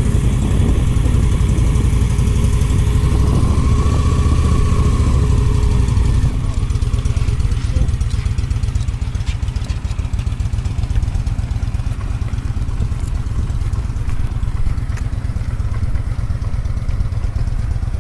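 Motorcycle engine idling steadily, a little louder for the first six seconds.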